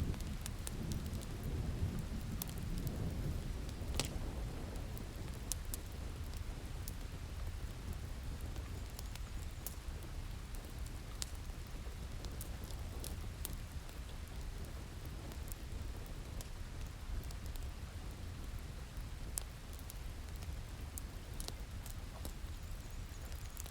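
Steady rain with a low rumble of thunder that rolls and fades over the first few seconds, and scattered sharp crackles and pops from a wood fire.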